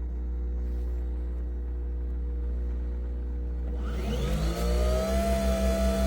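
Nespresso Vertuo Pop+ coffee machine brewing: a steady motor hum, then about four seconds in a whine rises in pitch and settles into a steady higher tone over a low throb pulsing about four times a second, as the capsule spins up to speed.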